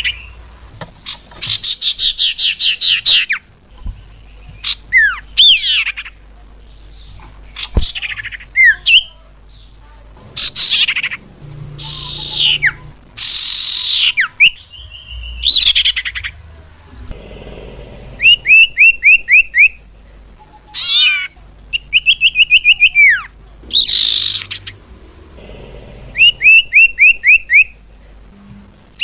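Cipau (common iora) calls used as a bird lure: a loud, varied string of sharp chirps, down-slurred whistles and short trills. From about 18 s, quick bursts of five or six rapid chirps repeat every few seconds.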